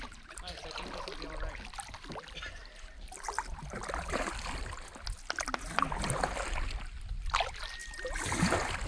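Paddles dipping and pulling through lake water, with irregular splashes and drips from the strokes. Wind rumbles on the microphone underneath.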